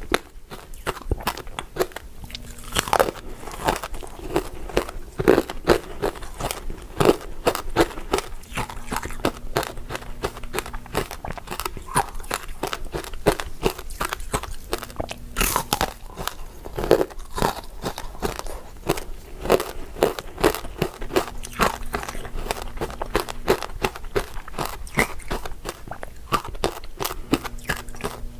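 Close-up crunching and chewing of hard, translucent crystal ice dessert pieces: a dense, continuous run of crisp crackling bites, with louder crunches every second or two.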